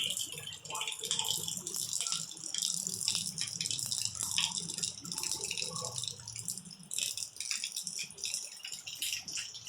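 Heavy rain falling, a dense patter of drops, with a low hum underneath that fades after about seven seconds.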